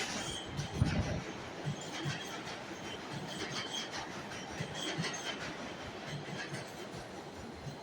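New York City subway train running through the station, its wheels clattering over the rail joints with a louder knock about a second in and short, faint wheel squeals.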